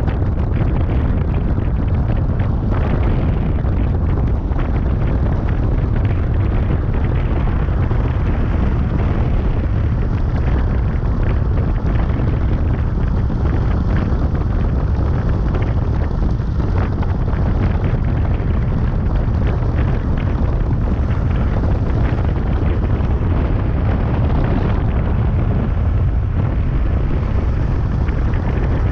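Motorcycle riding noise dominated by heavy wind buffeting on the microphone: a loud, steady rumble with constant crackle.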